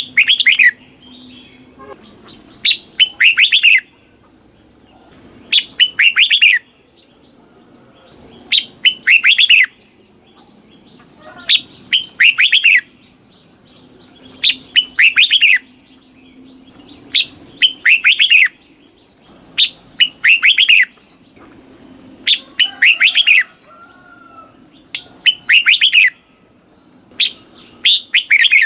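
Red-whiskered bulbul singing, repeating the same short phrase about every three seconds: a couple of quick notes and then a fast run of bright, falling whistled notes.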